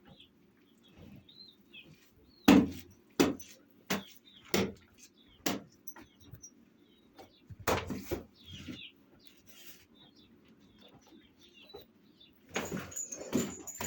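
Birds chirping faintly, broken by a series of sharp knocks, about one every 0.7 seconds for a few seconds, then a cluster of knocks; near the end the knocks come thick and fast.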